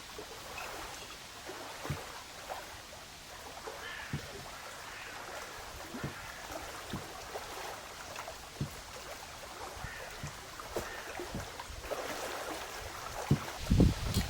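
Water splashing and lapping in small irregular splashes, with occasional light knocks. A few heavy low thumps come near the end.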